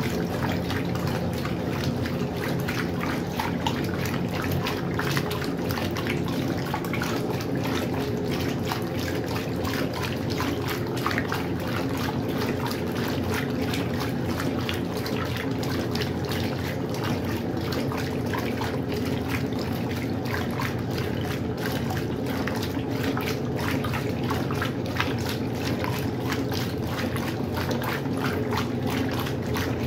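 Westinghouse washing machine running with water flowing and trickling inside its tub, over a steady low hum.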